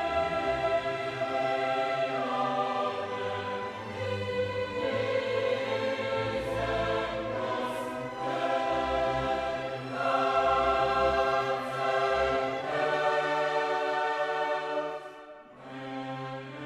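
Choir singing sustained chords with orchestral accompaniment.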